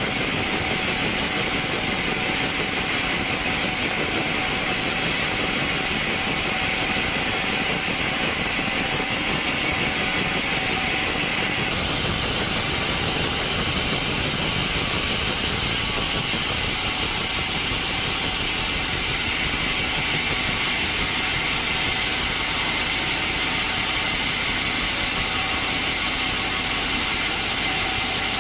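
Sawmill machinery running with a loud, steady noise and no distinct cutting strokes; its tone changes abruptly about twelve seconds in.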